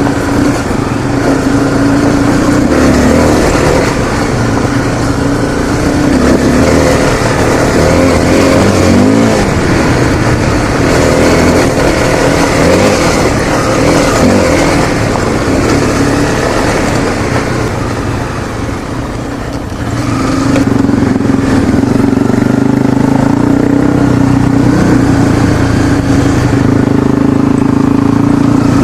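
Honda CRF250L's single-cylinder four-stroke engine being ridden, its note rising and falling with the throttle. It eases off around eighteen seconds in and picks up again at about twenty seconds.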